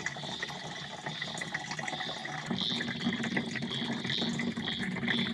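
Water running or being poured, a steady splashing hiss, with a low steady hum joining about halfway through.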